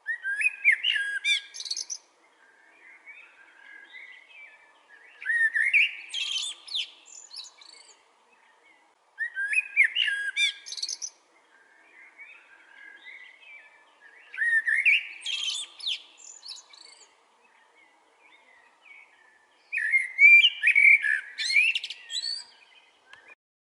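Common blackbird singing: five loud phrases, each of fluty whistled notes ending in a high squeaky twitter, with soft quieter warbling in the pauses between them.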